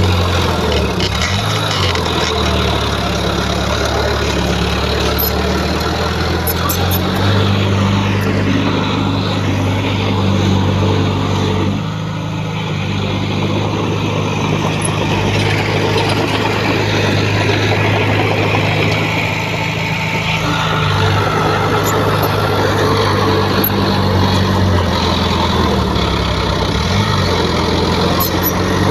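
Diesel engine of heavy earthmoving machinery running under load, its pitch stepping up and down several times as the load changes.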